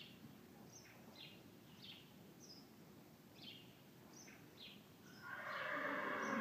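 Faint, short high chirps of small birds, repeating about once or twice a second. About five seconds in, a louder rushing noise sets in and holds.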